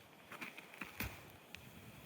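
A few faint, sharp clicks and snaps, the loudest about a second in, over a low, steady hiss.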